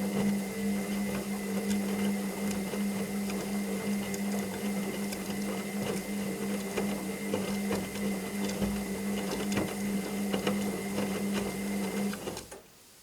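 Washing machine running: a steady electric hum with rattling clicks over it, which stops suddenly about half a second before the end.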